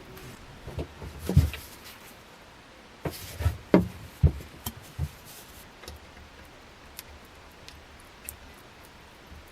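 A series of irregular knocks and clicks, hard objects being handled or set down, bunched in the first half and tailing off into a few faint ticks.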